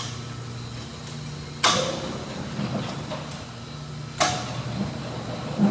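Belt-drive overhead garage door opener running with a low hum, broken by three sharp metallic clunks, and the hum shifts at each clunk.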